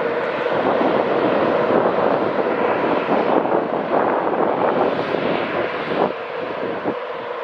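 A train moving through the station: a steady mechanical hum under a broad rushing noise, which eases about six seconds in.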